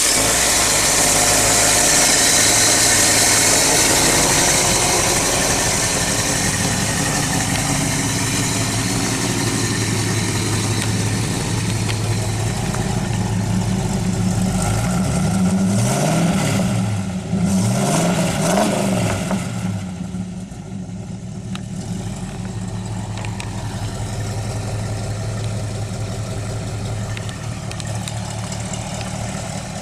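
The 350 cubic inch small-block Chevy V8 with dual MagnaFlow exhaust runs at a steady idle. About halfway through it is revved up and back down two or three times, then settles to a lower, quieter idle.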